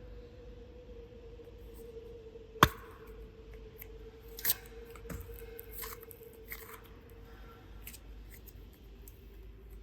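Hand-crafting noises with clay and slime: a sharp click a little over two seconds in, then a cluster of small clicks and crinkling a couple of seconds later, over a faint steady hum.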